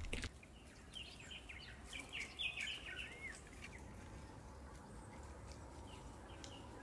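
A bird chirping, a quick run of short high calls between about one and three seconds in, over a faint steady outdoor background.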